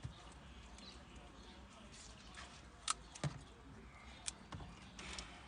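Faint scattered clicks and light knocks, three sharper ones in the middle, over a low steady hum.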